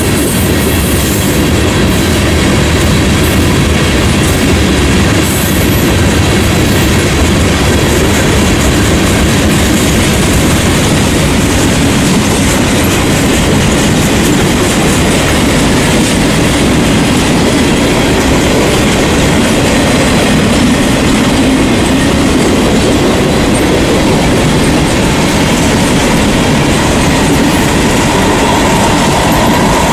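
Freight train cars rolling past: a steady rumble of steel wheels on rail with clickety-clack over the rail joints. A faint wheel squeal comes in near the end.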